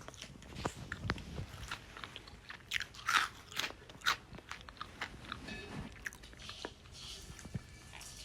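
Green parrot biting and crunching food with its beak, a run of irregular sharp crunches.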